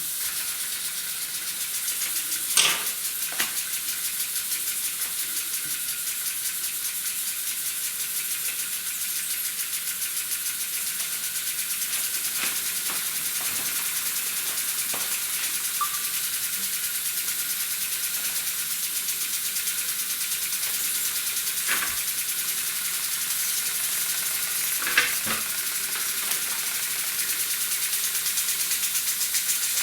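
Small model steam engine running, with a steady hiss of steam leaking around its fittings and a fast, even mechanical ticking. A few sharp clicks come as the fittings are tightened and loosened.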